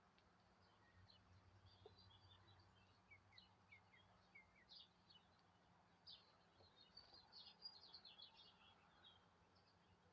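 Faint, high-pitched chirping and twittering of small songbirds: many short notes, a few falling ones, growing busier in the second half, over a faint steady low hum.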